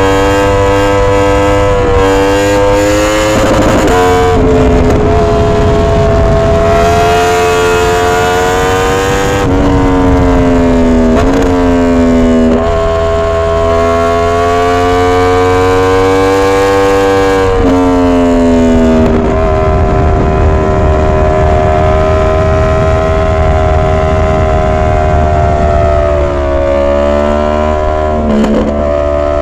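2022 Yamaha R1 crossplane inline-four engine running at high revs, a steady loud howl whose pitch climbs slowly and then drops sharply several times.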